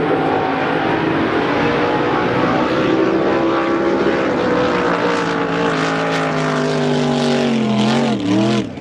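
Racing drag boat engine running hard at high revs, its pitch slowly falling over the last few seconds, then a sudden dip and recovery near the end.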